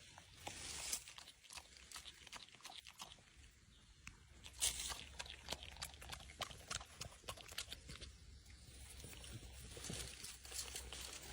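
A French bulldog chewing and crunching on something, a dense run of quick crackling clicks with one louder crunch a few seconds in.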